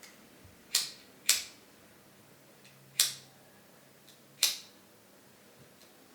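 Four sharp clicks: two close together about half a second apart, then two more, spaced about a second and a half apart.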